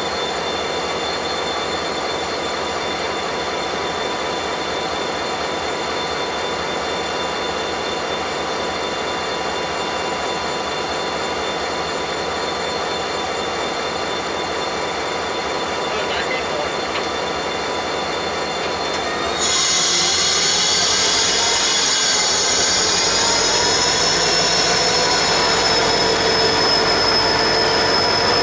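Freight train rolling slowly with its steel wheels squealing against the rails. About twenty seconds in, the squeal suddenly grows louder and higher, with a wavering high tone.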